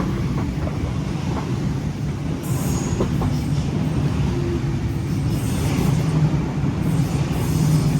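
Oscar H-set electric intercity train running past at the platform: a steady heavy rumble of wheels on rail, with a brief high-pitched wheel squeal about two and a half seconds in.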